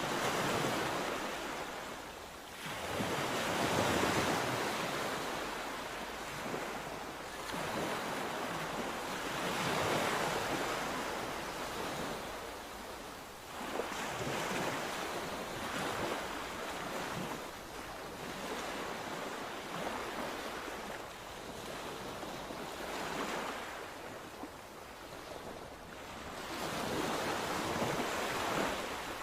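Sea waves breaking and washing in, one surge after another a few seconds apart, each swelling to a rush and then ebbing away.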